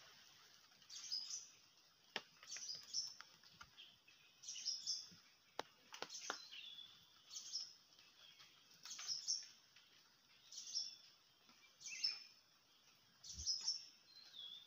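Small birds chirping faintly, short high chirps in clusters about every second and a half, with a few faint clicks among them.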